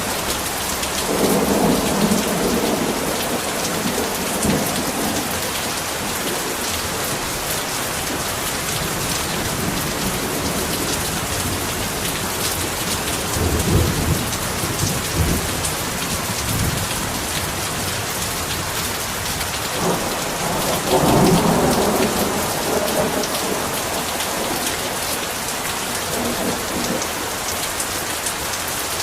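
Heavy rain falling steadily, with rolls of thunder rumbling three times: near the start, about midway, and loudest at about two-thirds of the way through.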